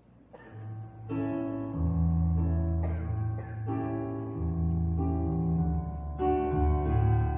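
Piano playing the introduction to a choral number: full chords over a low bass line, starting a moment in and changing every second or two.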